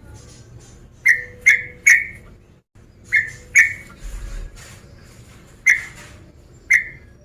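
Male yellow-vented bulbul (trucuk) giving short, sharp, loud call notes, about seven in all: three in quick succession, then a pair, then two single notes.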